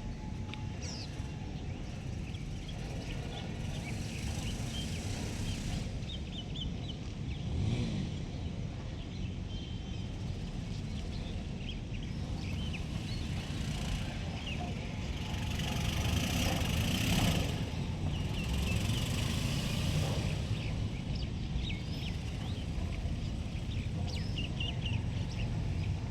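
Outdoor ambience: a steady low rumble of traffic-like noise with many short, high bird chirps scattered through it. A louder swell, like a vehicle passing, rises and falls about two-thirds of the way in.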